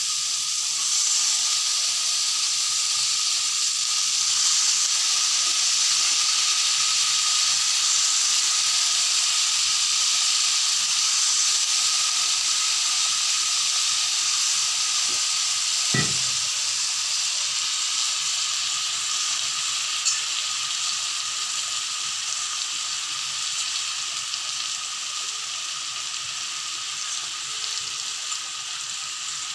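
Soaked, squeezed-out puffed rice frying in hot oil in a pan, a steady sizzle that eases a little in the later part. One sharp knock about sixteen seconds in.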